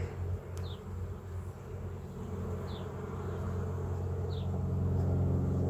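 Honeybee colony buzzing around an opened hive, a steady low hum that swells a little near the end, with a faint short high chirp repeating about every second and a half.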